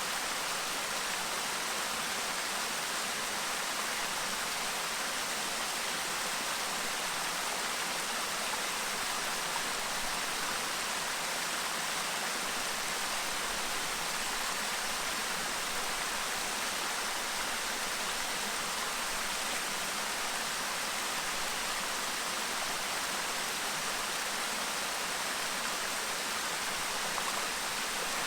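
Clear stream babbling and rushing over stones, a steady, even water noise with no change.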